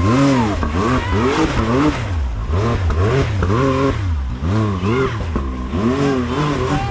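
Side-by-side UTV engine revved up and down in repeated throttle blips, about once a second, as it crawls and bumps up a rock obstacle.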